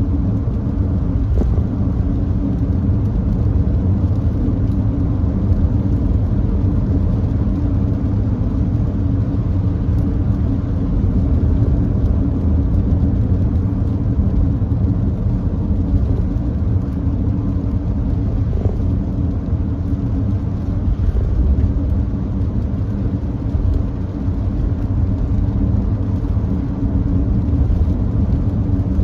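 Steady road and tyre noise from a Nissan Note e-POWER cruising at constant speed on a wet expressway, mostly a deep even rumble.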